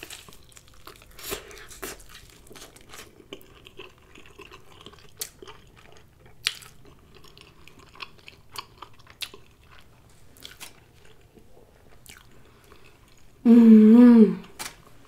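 Close-miked chewing of a grilled cheese sandwich dipped in tomato soup: soft mouth sounds with occasional sharp clicks. Near the end, a brief hum of the voice, about a second long.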